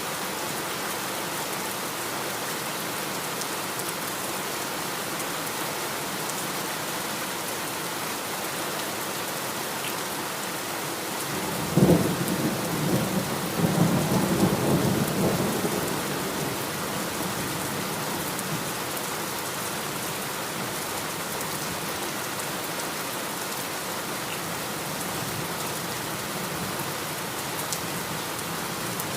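Steady heavy rain falling. About twelve seconds in, a sudden crack of thunder rolls into a rumble lasting several seconds, then the rain goes on alone.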